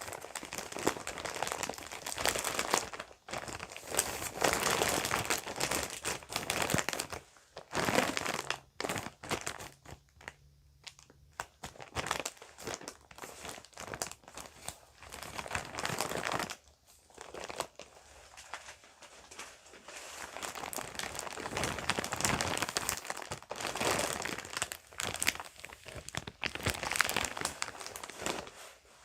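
Bag crinkling and rustling as it is handled, in bursts with short pauses and scattered small clicks.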